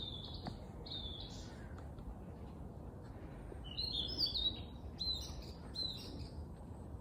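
Songbirds chirping in short, quick phrases: a group near the start and a busier run in the second half, over a steady low background rumble.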